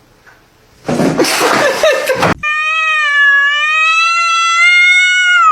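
A cat crying: a loud, noisy cry lasting about a second and a half, then one long drawn-out meow held for about three seconds that drops in pitch at the end.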